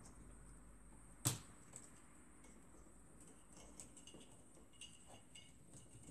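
Small clicks from handling the plastic parts and cables of a printer fuser unit: one sharp click about a second in, then a scatter of faint light ticks and clicks.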